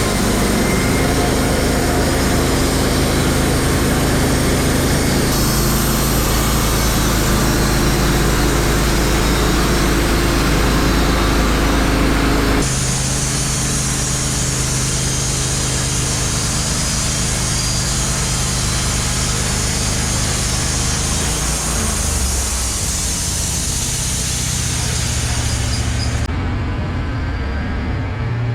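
Wood-Mizer LT15 Wide portable band sawmill running steadily, its engine under load with the band blade sawing through a hemlock log. The high hiss drops away about 26 seconds in.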